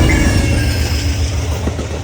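Amtrak passenger train passing close by: a heavy low rumble of the diesel locomotive and wheels on the rails, slowly fading as it moves away.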